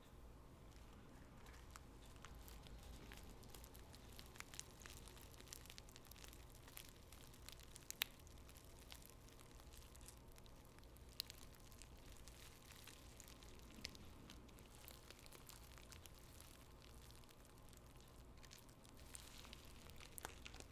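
Faint crinkling and rustling of tea bags and their paper wrappers handled close to the microphone, with soft scattered clicks and a few sharper ticks, the loudest about eight seconds in.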